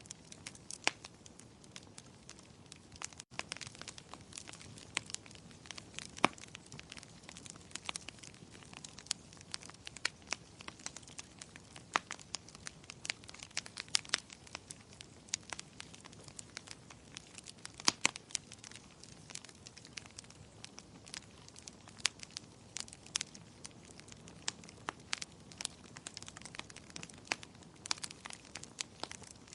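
Wood fire crackling, with irregular sharp pops and snaps, a few of them louder, over a faint steady hiss.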